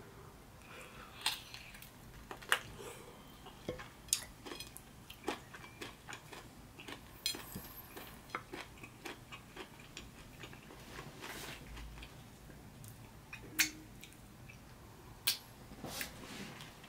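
Close-miked chewing of stewed beef bitten off the bone: irregular sharp clicks and smacks of the mouth, a few louder ones standing out.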